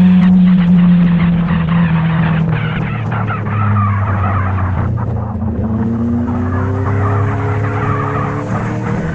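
Motorcycle engine running while riding, with wind rushing past. Its pitch drops about five seconds in, then climbs slowly again.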